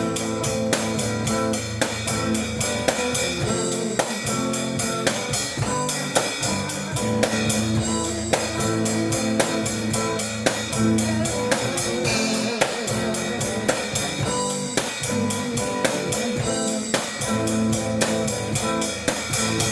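Instrumental break of a blues-rock song: guitar played over a drum kit keeping a steady beat, with no singing.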